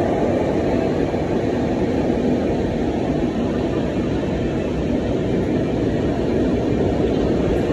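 Steady low rumble of a passenger train running slowly out of a station, heard from the coach's open doorway.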